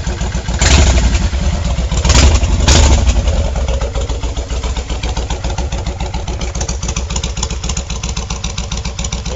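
2006 Kawasaki Vulcan 1500 Classic's V-twin running through 3-inch HardKrome exhaust pipes with spiral baffles, idling with an even beat. The throttle is blipped three times in the first three seconds, the last two close together, and the engine then settles back to idle.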